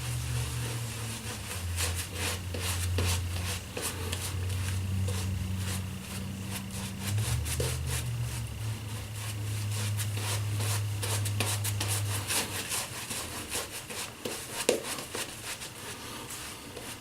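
Shaving brush working creamy shaving-soap lather into a bearded face: a continuous wet scrubbing of quick bristle strokes. A low steady hum runs underneath for the first twelve seconds or so.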